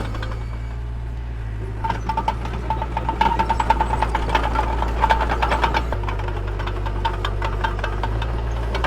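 Diesel engine of heavy earthmoving equipment running steadily, with a burst of metallic rattling and squeaky clatter from about two seconds in until about six seconds in.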